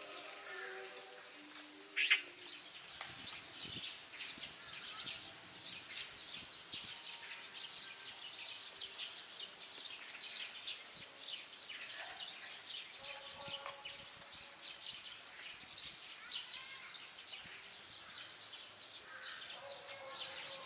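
Birds chirping over and over: short, high calls that drop quickly in pitch, coming about one to two a second, with a louder one about two seconds in.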